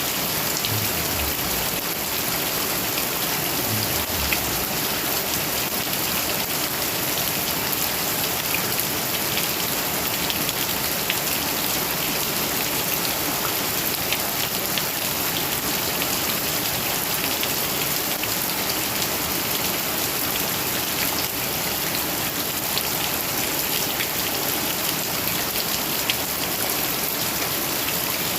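Heavy rain falling steadily, a dense hiss with scattered drop ticks.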